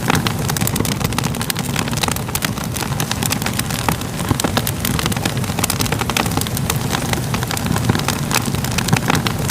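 Wood fire crackling: a steady low rush of flame with frequent irregular sharp pops and crackles.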